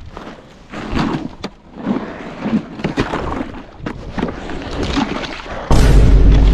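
Irregular crunching and scraping on ice and slush. About five and a half seconds in, a sudden loud, deep rumble of wind buffeting the microphone takes over.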